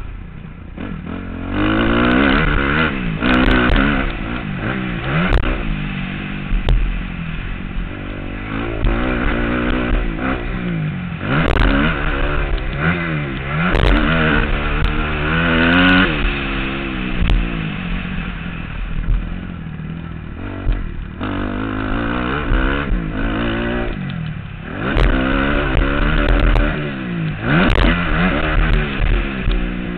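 Motocross bike engine revving up and falling back over and over as the rider accelerates and eases off around the track, heard from a helmet-mounted camera. Short knocks and clatter come in now and then.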